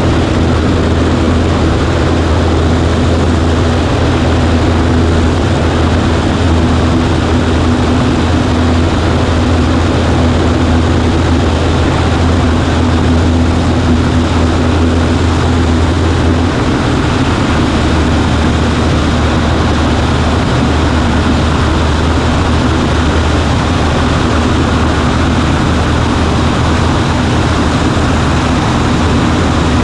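Cessna 140A's air-cooled flat-four piston engine and propeller running steadily under power, a loud continuous drone. The low note eases slightly lower a little past halfway through.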